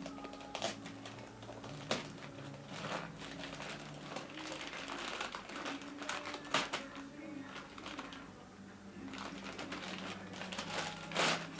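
Wrapping paper rustling and tearing as a present is unwrapped, in irregular crackles and rips.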